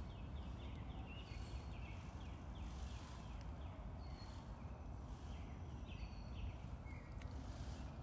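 Small birds chirping in quick, repeated short notes over a steady low rumble of outdoor background noise.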